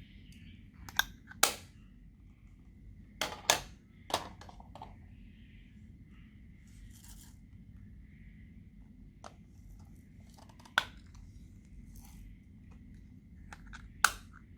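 Slime being worked by hand, giving a handful of sharp pops and clicks in small clusters: twice about a second in, three times around the third and fourth seconds, and single pops later on.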